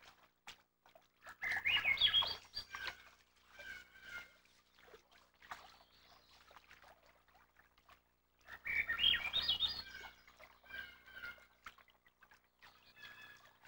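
Birds chirping: two bursts of quick, high twittering, about a second and a half in and again about nine seconds in, with a few softer short calls between and near the end.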